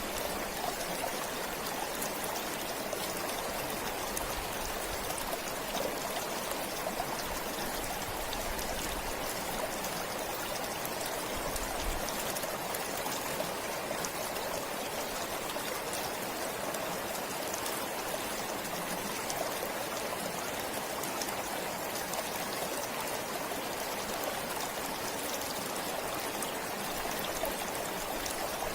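Forest stream flowing and trickling steadily, a continuous even rush of water.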